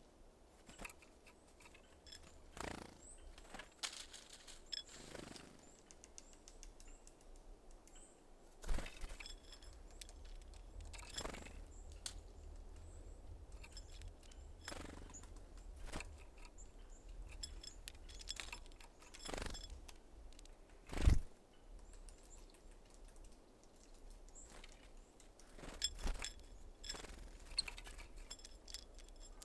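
Small birds at a sunflower-seed feeder: scattered sharp taps and clicks, the loudest about two-thirds of the way through, with a few faint high chirps.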